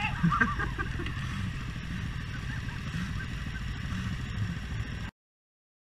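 Motorcycle engine running with a deep, pulsing rumble, which cuts off abruptly about five seconds in.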